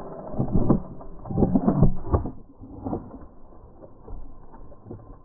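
Fishing reel working mechanically as a small tarpon is hooked and fought. It comes in uneven surges that are loudest in the first couple of seconds, then grow fainter.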